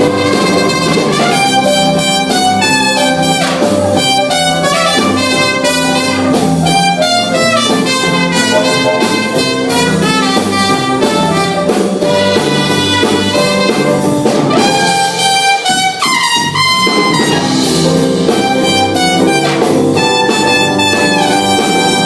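Live band playing an instrumental break in a rock-and-roll song: a lead instrument carries the melody over drums and bass, with the low end briefly dropping out about two-thirds of the way through.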